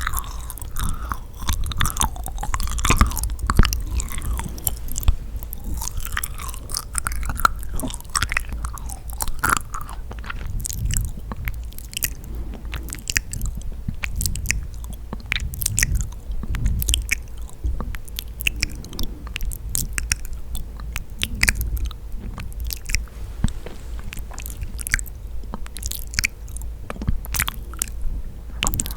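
Close-miked chewing and biting of yakgwa, a honey-soaked fried Korean cookie: continuous sticky, moist mouth sounds full of small irregular clicks.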